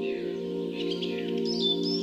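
Soft ambient background music of held chords, with birdsong over it: quick chirps and short gliding whistles.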